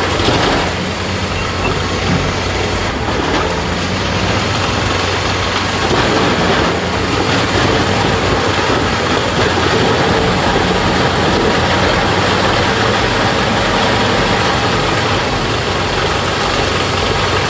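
Industrial shredder running under load: a loud, steady mechanical din with a constant low hum underneath.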